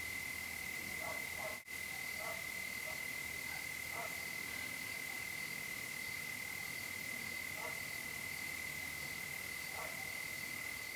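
Frogs calling at night: short, scattered calls, about six of them, over a steady high-pitched tone and hiss.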